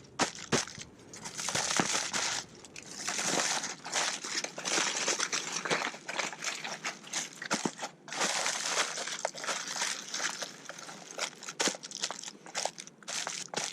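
Aluminium tin foil being folded and crumpled by hand around a food parcel for a second layer of wrapping, in irregular crinkling bursts with sharp crackles.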